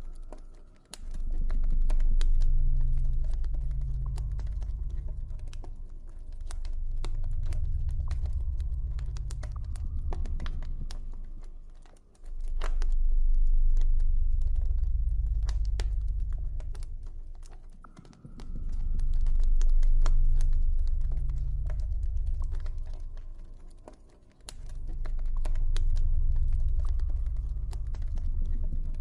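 Campfire crackling, with scattered sharp pops and snaps, over a deep low drone. The drone swells and fades in slow waves every several seconds.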